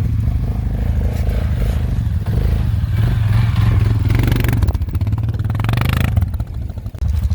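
ATV engine running, getting louder a few seconds in, then briefly dropping off near the end before picking up again.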